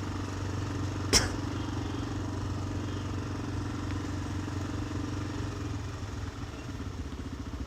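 Motorcycle engine running steadily at low speed in traffic, with a single sharp click about a second in. The engine quietens a little near the end, settling into an even pulsing beat.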